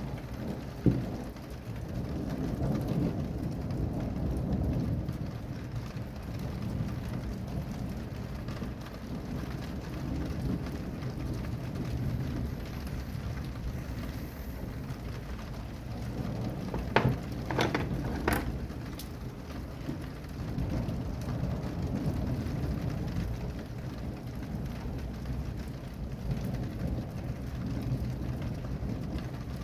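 Rain falling steadily with thunder rumbling low and rolling through. A sharp click sounds about a second in, and three more come in quick succession a little past the middle.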